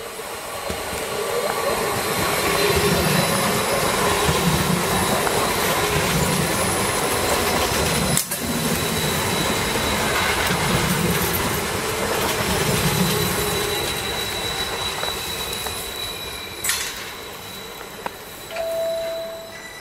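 Electric passenger train running past along the platform, its rush of wheels on rail swelling and then fading away, with a steady high whine and low clatter every second or two as the wheels cross rail joints. A short click comes near the end, then a brief steady tone.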